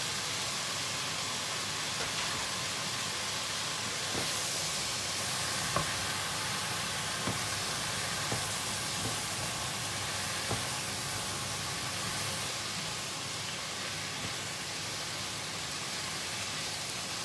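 Stir-fried vegetables sizzling steadily in a hot oiled pan as sliced mushrooms are tipped in and stirred, with a few light knocks of the spatula against the pan.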